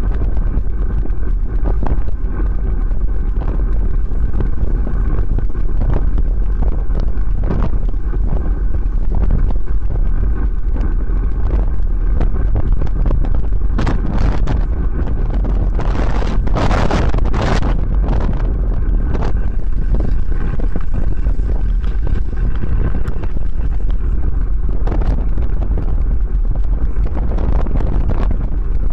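Wind buffeting the microphone of a camera on a moving bicycle: a loud, steady low rumble, with a stronger, hissier gust around the middle.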